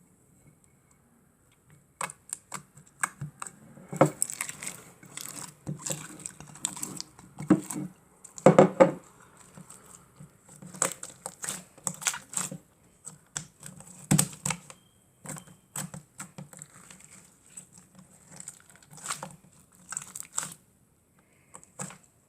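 Hands kneading, stretching and pressing slime: irregular sticky clicks, pops and crackles, starting about two seconds in.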